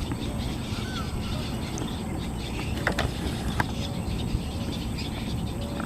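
Steady low wind rumble with a few faint, short bird chirps, and two sharp knocks about three seconds in.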